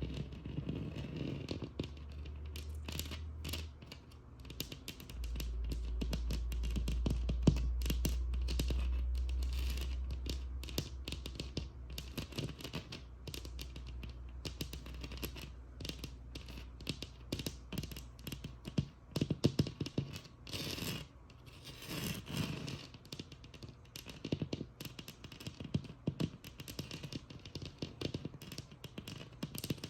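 Scratching and tapping on a textured wall: a dense, irregular run of short scrapes and taps, some much louder than others, with a low hum underneath through the first half.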